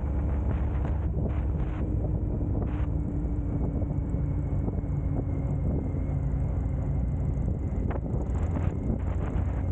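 Motorcycle running at a steady cruise on the road, a low even rumble with wind buffeting the microphone.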